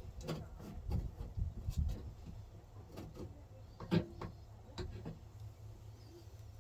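Irregular light clicks and knocks of hand work on metal and plastic parts over a low rumble, the sharpest knock about four seconds in.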